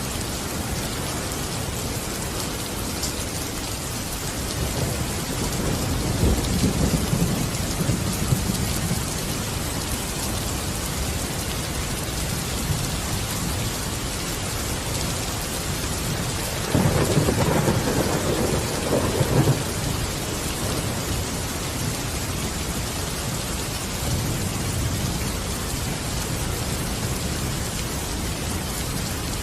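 Steady heavy rain with rolling thunder, rumbling twice: about five seconds in and again more strongly just past halfway.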